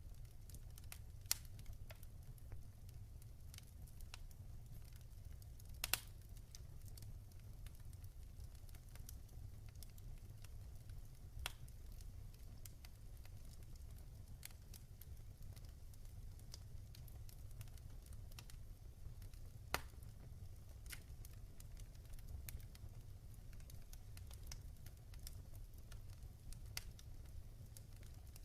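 Wood fire crackling in a fireplace: a steady low rumble of flames under scattered sharp pops, with a few louder pops several seconds apart.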